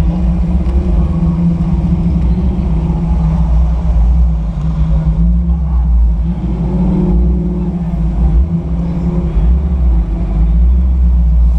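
Sunbeam Tiger's Ford V8 running at low revs as the car creeps forward in a queue. It gives a steady low engine note, with a brief rise in revs about halfway through.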